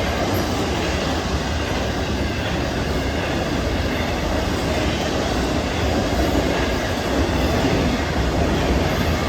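Train cars rolling past on the rails, a steady, continuous noise of wheels on track with no horn.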